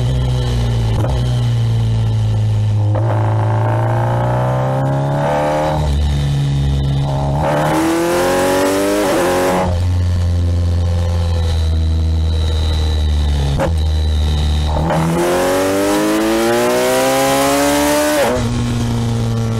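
Kawasaki Ninja 1000SX's inline-four engine heard from the rider's seat, pulling hard three times with its pitch climbing and then falling back as the throttle closes, running steadily lower in between. Wind rushes past loudest during the second and third pulls.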